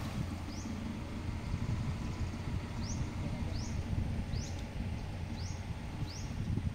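A bird repeats a short, high, rising chirp about once a second over a steady low rumble of river water and wading.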